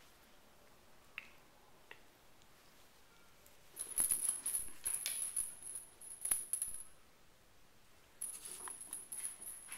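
A small jingling toy being shaken or batted, rattling in two bursts of a few seconds each. The first burst comes about four seconds in; the second starts a little over a second after it ends.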